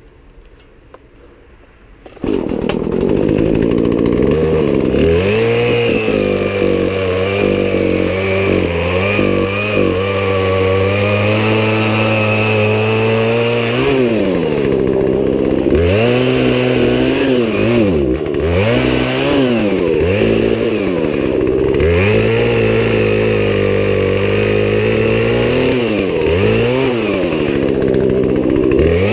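Poulan Pro two-stroke chainsaw starting about two seconds in and then running loud. From about halfway on, its engine pitch repeatedly drops and climbs back.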